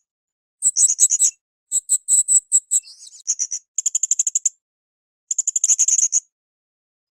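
Blue-crowned hanging parrot (srindit) calling in rapid bursts of high, sharp chirps, about five bursts with short silences between them.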